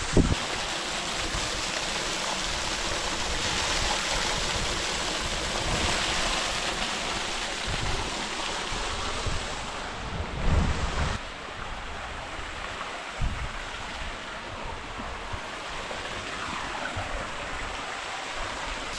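Water sloshing and splashing around a canoe as it is paddled, a steady rushing noise, with wind buffeting the microphone in low thumps, the strongest about ten seconds in.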